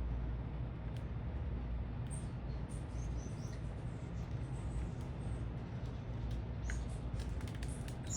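Small birds at a feeder give scattered short, high chirps, mostly in two spells, with a few small clicks among them. Under them runs a steady low rumble of city traffic.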